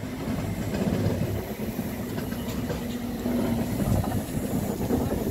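Train hauled by a Pt47 steam locomotive, a steady low rumble.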